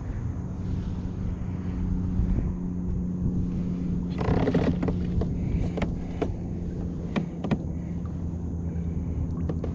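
A boat motor hums steadily at low pitch. About four seconds in there is a short splash-like burst, followed by a series of sharp knocks and clicks.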